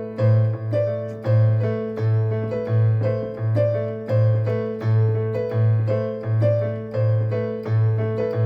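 Piano playing a short stepping pattern on the notes A, B, C, D against a low A bass note. The bass is struck evenly, a little under twice a second, and a higher note keeps sounding over the pattern.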